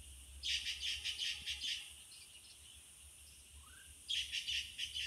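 A wild songbird calling in forest: a quick run of high chirps lasting about a second and a half, then after a pause a second, shorter run near the end.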